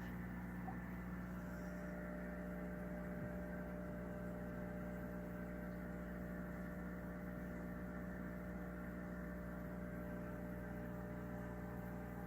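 Aquarium equipment humming steadily, mainly the Fluval FX6 canister filter pumps: a low electric hum made of several steady tones.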